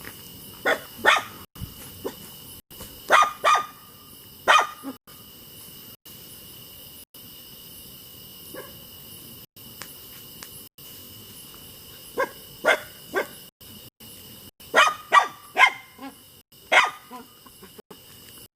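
A dog barking in two bouts, several barks in the first five seconds, then a second run starting about twelve seconds in. Steady high-pitched insect chirring from crickets continues underneath.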